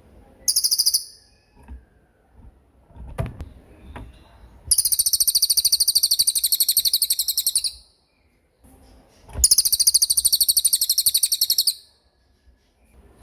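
Small songbird singing rapid, high-pitched rolling trills: a short burst about half a second in, then two long trills of about three seconds each, with faint clicks between.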